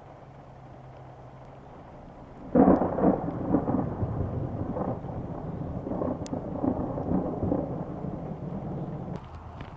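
Thunder: a sharp clap about two and a half seconds in, then a long rolling rumble that pulses for about six seconds and cuts off near the end. Before the clap there is only a low, steady hum.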